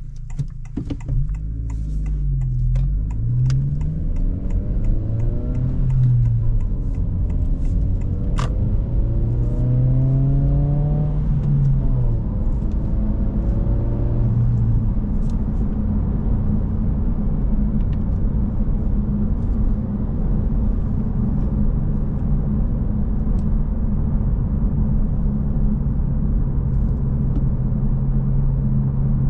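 Honda Civic Si's 1.5-litre turbocharged four-cylinder pulling away and accelerating, its revs climbing and dropping several times as the manual gearbox is shifted up through the gears, then settling into a steady drone with tyre and road noise.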